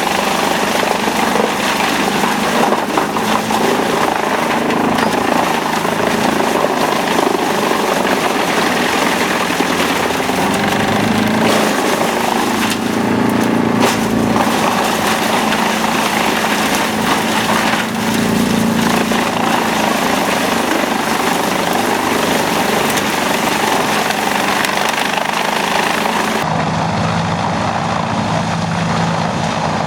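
Wood chipper running under load: a loud, steady engine and chipping noise. Near the end it switches abruptly to a different machine's steadier, lower engine hum.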